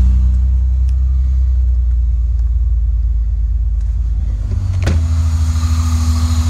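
Supercharged Honda Pilot's J-series V6, fitted with an Eaton M90 supercharger, idling steadily just after being started. About five seconds in the sound turns brighter as it is heard from the open engine bay rather than the cabin.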